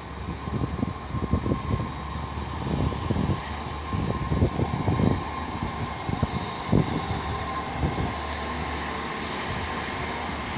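GWR Class 800 bi-mode train moving through the station on its underfloor diesel engines, a steady running noise with a thin steady tone. Irregular low thumps come through the first half and ease off after about seven seconds.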